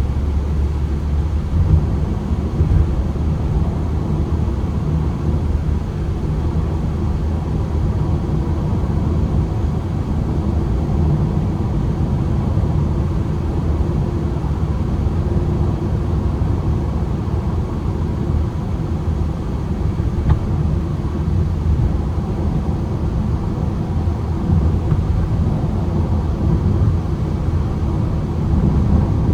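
Ford Transit Connect van's petrol engine running steadily on the move, with a continuous low rumble of engine and road noise.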